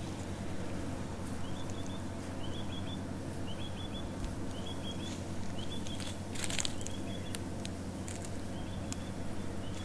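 A small bird calling over and over, each call a quick run of two or three high chirps, about once a second, over a steady low rumble, with a few sharp clicks about six and a half seconds in.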